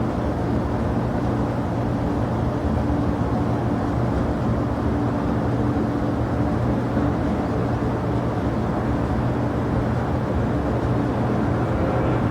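Steady hum of jet aircraft engines running, with steady low tones under a wide rushing noise. Near the end a faint higher whine joins in.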